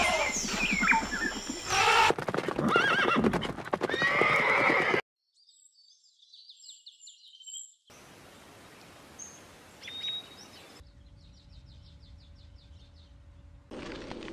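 Horse neighing several times, loud whinnies with hoof clops among them, for about the first five seconds. Then only faint high chirps and a steady low hum.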